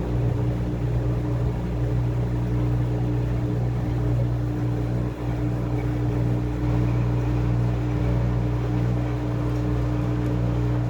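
Washing machine running with a steady motor hum, with no stop-start rhythm.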